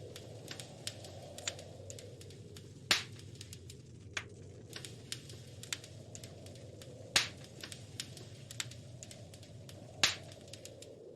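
Wood fire crackling in a fireplace: frequent small crackles and three louder pops, over a low steady background.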